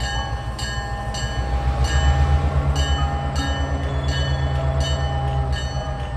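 Passenger train passing close by: a deep, steady rumble from its carriages that swells about two seconds in and slowly eases.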